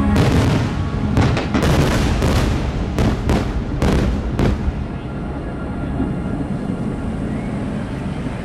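Aerial firework shells bursting in a rapid series of about ten sharp bangs over the first four and a half seconds, followed by a low rumbling echo that slowly fades.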